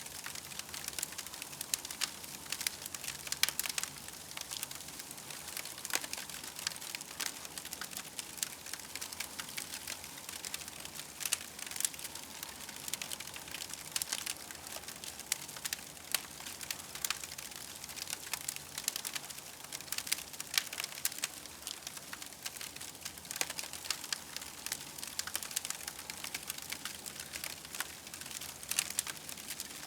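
Campfire crackling: dense, irregular small pops and snaps over a soft steady hiss.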